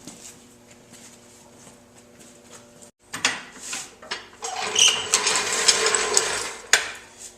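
Metal clinking and ratchet-like clicking of tie-down chain and hardware, sparse at first, then a dense burst of clattering from about four and a half to seven seconds in.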